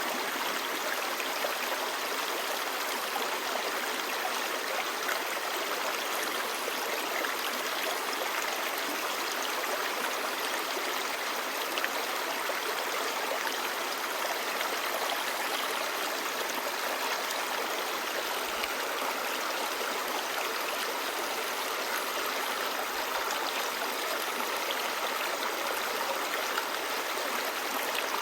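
Clear river babbling steadily, an even rush of flowing water with no pauses or changes.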